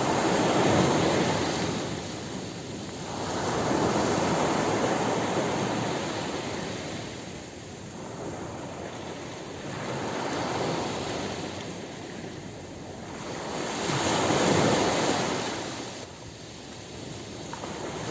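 Ocean surf on a beach: waves breaking and washing up, the rush of water swelling and fading about four times, every few seconds.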